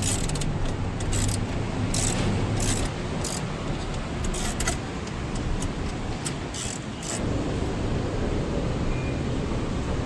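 Intermittent sharp clicks and clinks of hand tools working on a car door's window mechanism, over steady background traffic noise.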